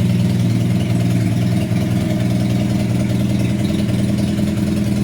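Honda CB250N parallel-twin motorcycle engine running steadily through a café racer/bobber-style aftermarket exhaust, with an even, unchanging note.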